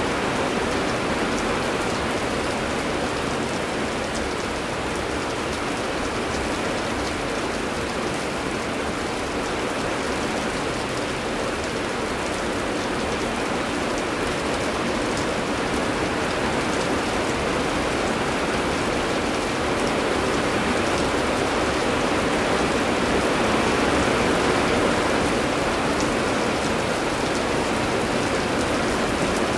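Heavy rain falling steadily: a continuous even hiss with scattered faint drop ticks.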